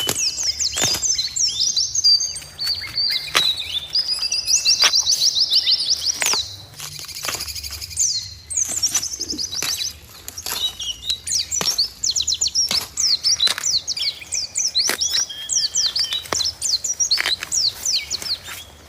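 Several forest birds singing at once: fast, chattering chirps, rapid trills and quick down-sweeping whistles, high-pitched and dense throughout.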